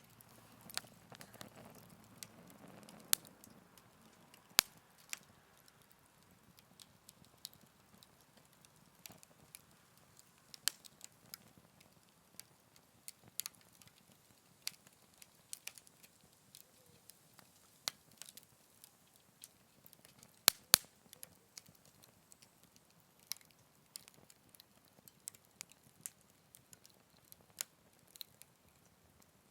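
Wood fire crackling in a Picogrill 398 fire stand: scattered sharp pops and snaps over a faint hiss of flame, with a soft rustle of burning in the first few seconds and the loudest pair of snaps about twenty seconds in.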